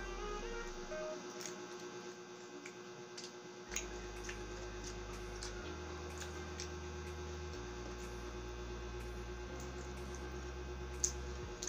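Close-up chewing sounds, scattered soft clicks and crunches of a mouthful of food, with one sharper click near the end. Under it a steady electrical hum, which the eater puts down to her electric pan.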